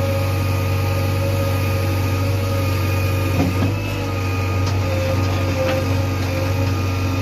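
Heavy diesel machinery engine running steadily with a deep, even hum, with a brief knock about three and a half seconds in.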